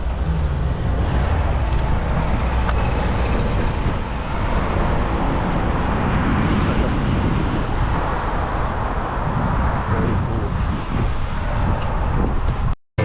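Steady city road traffic noise with a heavy low rumble, heard while riding a bicycle through the streets. It cuts off abruptly just before the end.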